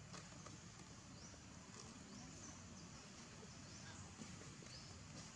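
Faint outdoor ambience: short, high, rising chirps, repeated every half second to a second, over a low steady rumble.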